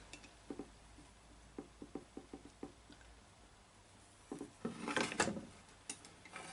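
Light metal clicks and knocks from a drill guide being rocked on its posts, ending in a louder clatter about four to five seconds in; it rocks because one post has been loosened and pushed down out of line.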